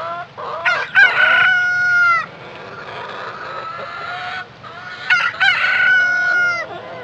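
Chickens clucking, with two loud, long drawn-out calls, one about a second in and another around five seconds in, and quieter short clucks between them.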